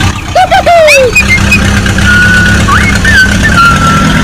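Mini tractor's engine running steadily with a low pulsing hum. Short high squeaky cries rise and fall over it in the first second, then one high held tone with a few bends in the second half.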